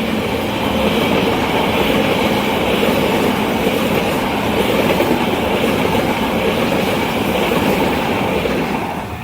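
A train running past at speed: a steady, loud rush of wheels on rail that drops away suddenly near the end.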